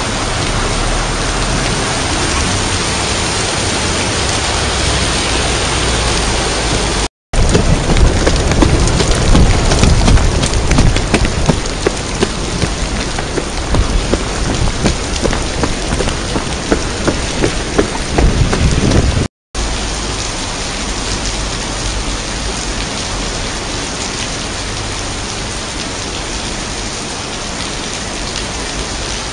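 Heavy rain pouring down in a summer thunderstorm. For about twelve seconds in the middle it is louder, with dense drops striking close by and a low rumble. The sound breaks off for an instant twice.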